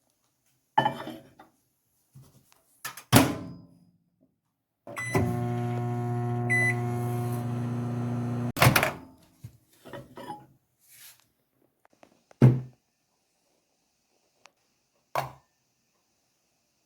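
Microwave oven running with a steady hum for about three and a half seconds, heating water, then stopping abruptly with a loud clunk. Several knocks and clunks before and after it, the loudest about twelve seconds in.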